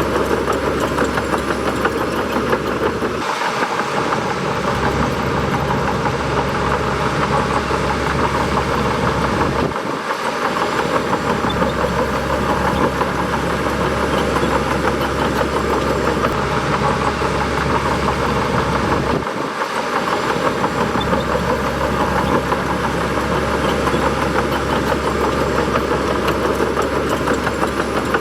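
Bulldozer's diesel engine running steadily, its low drone dipping briefly three times.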